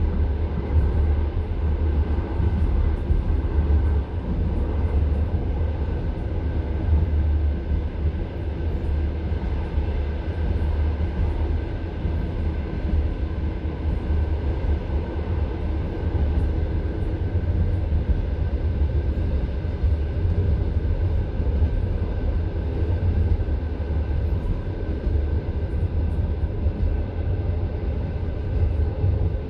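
Passenger train's wheels running on the rails, heard from inside the carriage: a steady low rumble.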